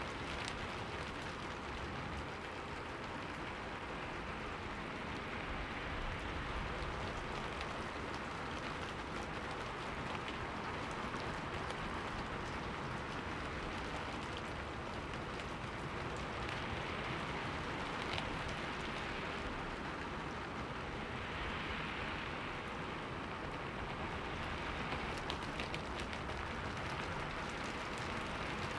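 Steady rain falling and pattering on a window, with scattered individual drop ticks.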